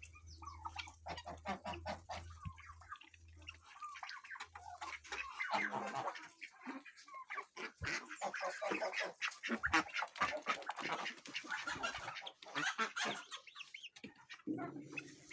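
A farmyard poultry flock, mainly chickens, clucking and calling in many short overlapping calls as they feed on scattered grain; the calling grows busier about five seconds in.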